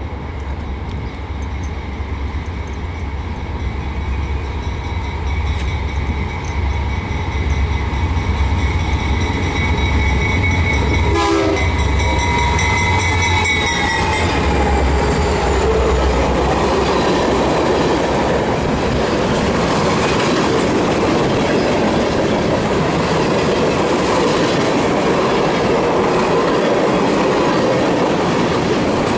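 A BNSF diesel freight train passes, sounding its multi-note air horn over the locomotive's low engine rumble. The horn cuts off about fourteen seconds in with a slight drop in pitch, and the steady rumble and clatter of the freight cars rolling by follows.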